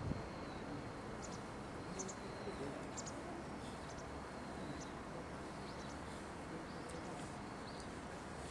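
Short, high bird chirps scattered over a steady low outdoor hiss, with a single knock at the very start.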